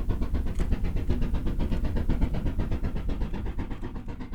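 LMS Black Five 4-6-0 steam locomotive working hard, its exhaust beating fast and evenly at about eight beats a second, growing slightly fainter near the end.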